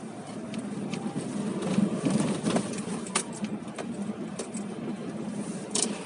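Car cabin while driving on a snowy, slippery road: a steady rumble of road and engine noise, with irregular clicks and knocks scattered through it.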